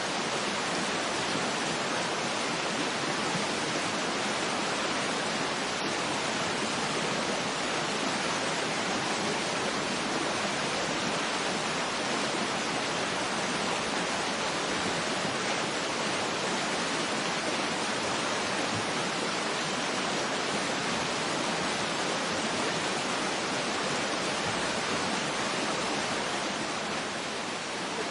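Steady rushing water of a waterfall, an even, unbroken hiss that softens slightly near the end.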